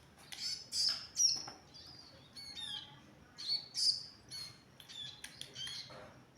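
Ciblek gunung (cigun), a small prinia, calling in a series of short, sharp chirps with quick pitch slides, coming in clusters with brief pauses.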